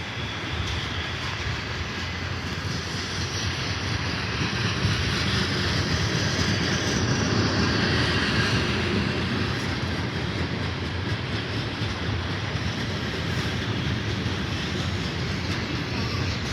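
Freight train of loaded trash cars rolling past: steady wheel-on-rail noise with some clickety-clack, growing louder to a peak about halfway through and easing off after.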